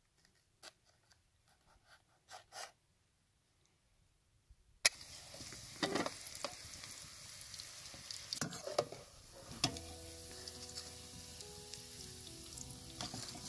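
A few faint knife taps on a board, then about five seconds in, potato strips frying in hot oil begin to sizzle steadily, with occasional scrapes and clicks of a slotted metal spoon against the pan.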